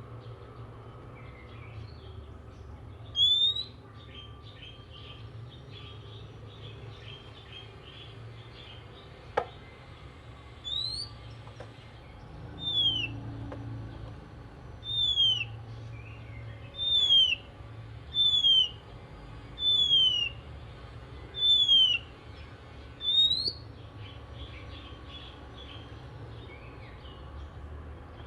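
Oriental magpie-robin singing a series of loud, clear whistled notes, most sliding down in pitch and a few sliding up, about one every two seconds. Fainter twittering runs underneath, over a low background rumble, with one sharp click just after nine seconds.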